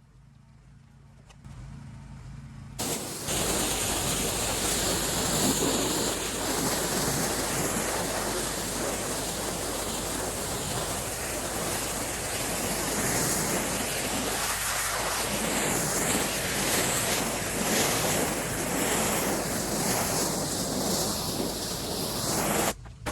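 Pressure washer spraying: a loud, steady hiss of the water jet over the low hum of the machine, starting about three seconds in and cutting off abruptly near the end.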